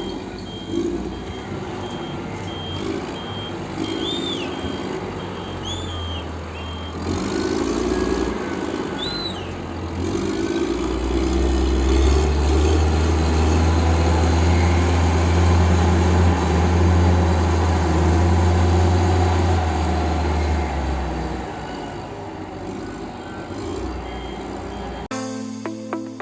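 Heavy vehicle's diesel engine running, with a reversing alarm beeping at an even pace for the first several seconds. The engine grows louder in the middle, then falls back.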